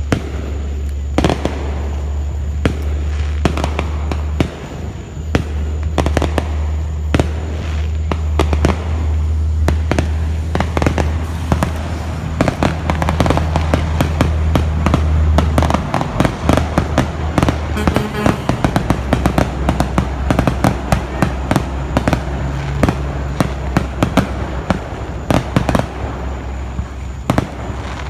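Fireworks display: many sharp bangs and crackles, one after another, thickest and fastest in the middle stretch. Under them runs a steady low rumble that breaks off briefly a few times.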